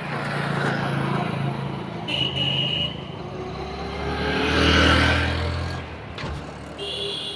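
Road traffic: a motor vehicle drives past close by, its engine growing to its loudest about five seconds in and then fading away.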